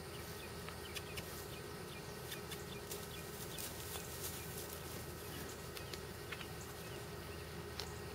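Faint short bird calls, like clucks or chirps, scattered over a steady low hum, with irregular light ticks.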